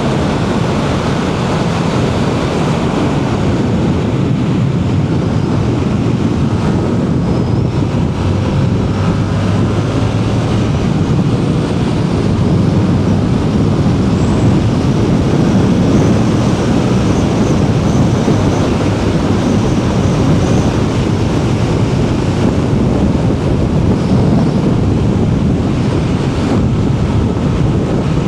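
Heavy wind rush on the microphone from riding a motorcycle at speed, with the bike's engine running steadily underneath.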